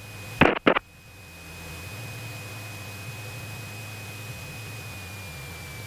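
Cessna 172SP's four-cylinder Lycoming engine idling, heard as a steady low hum through the cockpit intercom, with a thin steady electronic whine over it. Two brief radio clicks come just under a second in.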